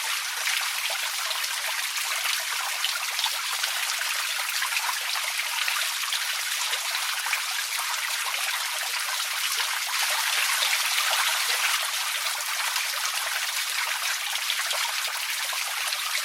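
Steady rain falling, a dense even hiss of many small drops pattering without pause.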